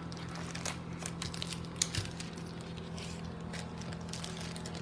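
Plastic hot dog packaging crinkling and rustling as it is folded closed, with scattered small clicks, over a steady low hum.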